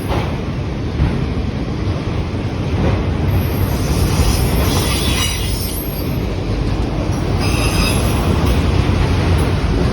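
Manifest freight train cars rolling past with a steady heavy rumble of wheels on rail, with stretches of high-pitched wheel squeal about three seconds in and again near the end.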